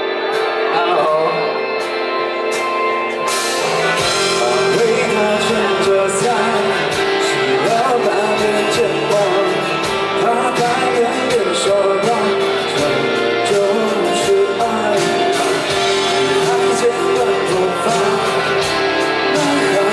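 A live pop-rock band plays a song, with the drums and bass coming in fully about four seconds in.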